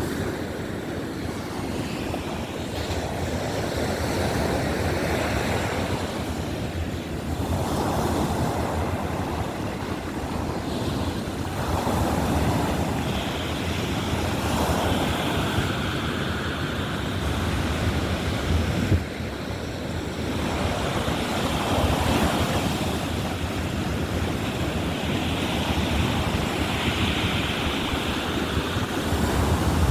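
Baltic Sea surf breaking and washing ashore, swelling in waves every few seconds, with wind rumbling on the microphone.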